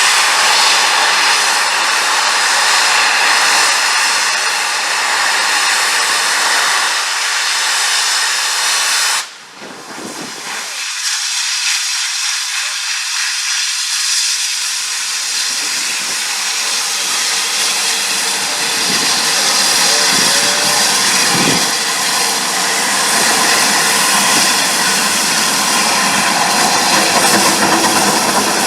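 Steam locomotive hissing steadily as steam is let off, cutting out abruptly about nine seconds in and then building back.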